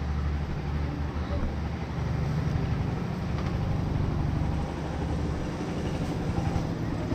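Motor scooter engine running steadily, a low hum with road and wind noise.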